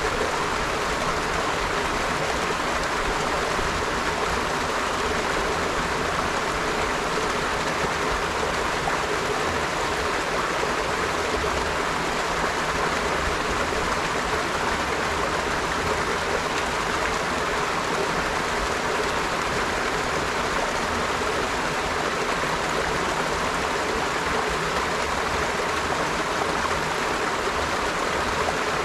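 River water flowing over rocks: a steady, unbroken rush of running water.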